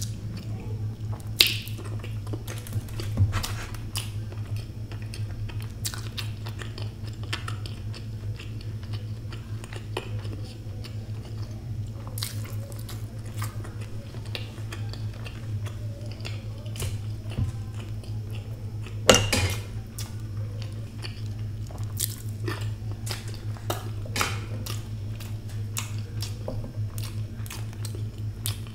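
Close-miked chewing of hard-boiled egg, with wet mouth clicks scattered throughout; the sharpest clicks come about a second and a half in and again near the twenty-second mark. A steady low hum runs underneath.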